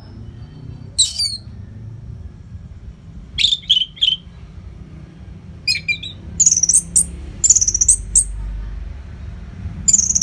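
Orange-headed thrush singing in short, rapid high phrases of varied notes separated by brief pauses, over a low steady hum.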